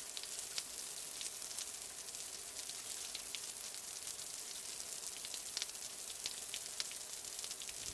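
Heavy rain falling: a steady hiss scattered with many small, sharp drop ticks.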